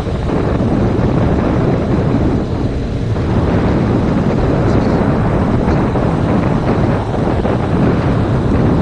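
Heavy wind buffeting on a GoPro Hero 5 Black's microphone while riding a motorcycle at speed: a loud, steady rumble that buries the bike.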